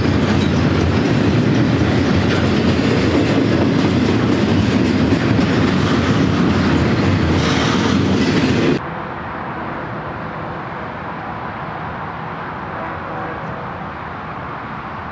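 Double-stack intermodal freight train rolling past close by, a loud steady rumble and rattle of wheels on rail and loaded container and trailer cars. Cuts off suddenly about nine seconds in to a much quieter, duller rumble of a more distant train.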